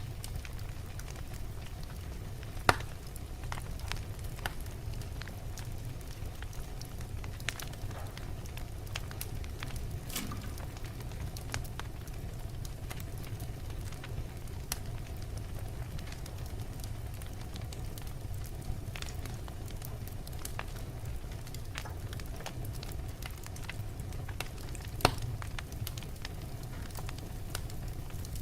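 Wood fire burning in a fireplace: steady low rumble of the flames with constant small crackles, and two loud sharp pops, about three seconds in and near the end.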